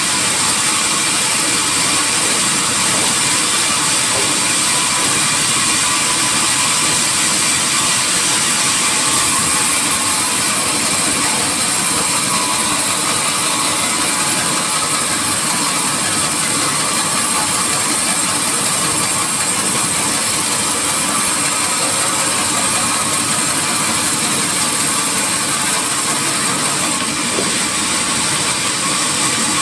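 Sawmill saw running steadily, cutting through teak wood: a loud, unbroken mechanical noise with a strong high hiss.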